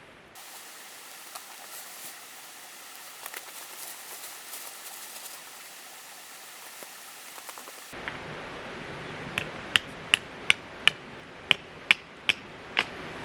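Outdoor quiet with a few faint clicks, then a quick run of about nine sharp, ringing metal strikes, two to three a second.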